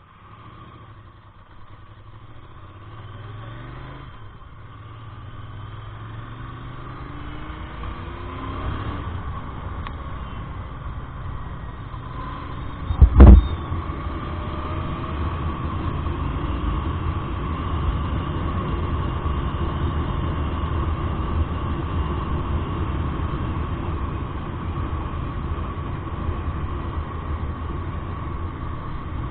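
Royal Enfield Interceptor 650's parallel-twin engine accelerating, its pitch rising over the first several seconds, then running at a steady cruise under mounting road and wind noise. A single loud thump comes near the middle.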